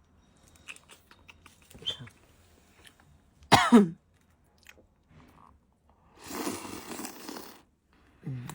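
Eating sounds: small bites and chewing of fried dough (a youmo flatbread wrapped around a youtiao). About three and a half seconds in comes a loud, short cough-like vocal sound that falls in pitch, and a longer noisy stretch follows about six seconds in.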